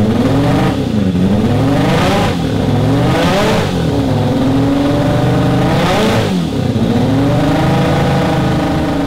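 A car engine revving hard, its pitch climbing and dropping several times, with brief rasping surges as it peaks, about one, two, three and six seconds in.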